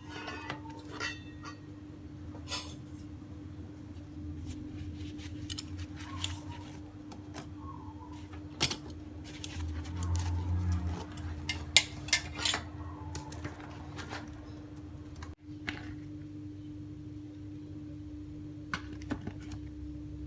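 Kitchenware being handled while food is packed: scattered clinks and knocks of dishes and food containers, busiest in the first two-thirds, over a steady low hum.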